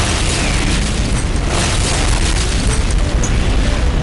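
Explosion sound effect: a blast that starts suddenly and runs on as a dense, steady rumble heavy in the bass.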